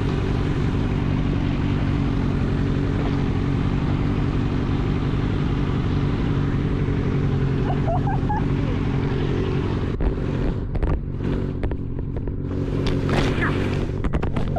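Motorcycle engine running steadily with a rush of wind and road noise. About ten seconds in, the hiss falls away and the sound turns uneven, with irregular gusts over the engine.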